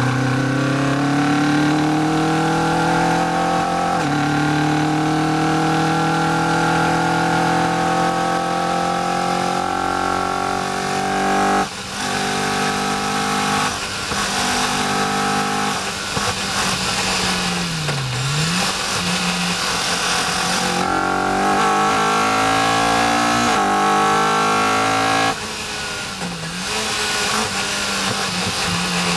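A Caterham R400's four-cylinder engine, heard from the open cockpit, accelerating hard through the gears. Its pitch climbs, then drops at upshifts about 4 and 12 seconds in. Later the revs rise and fall, the engine lifts off about 25 seconds in, and wind rush runs underneath.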